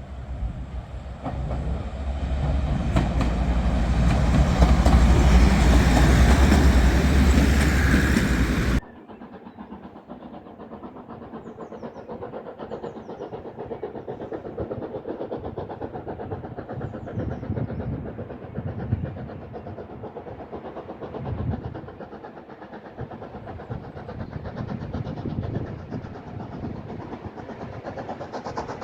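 A train running close by, swelling to a loud low rumble, then cut off abruptly about nine seconds in; after that a quieter, steady train sound continues.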